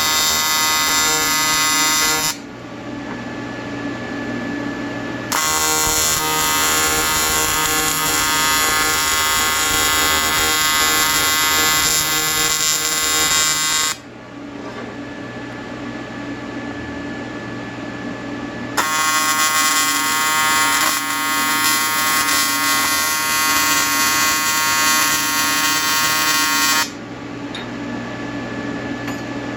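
Welding arc buzzing in three stretches, the first short and the next two several seconds long, each starting and stopping abruptly. Between them a quieter steady hum continues.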